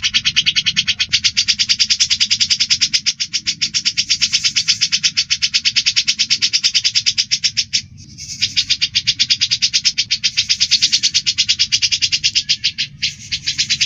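Cucak jenggot bulbul and sparrow calling in a fight: a loud, rapid chattering of evenly repeated notes, about ten a second, that breaks off briefly near eight seconds and again near thirteen seconds in.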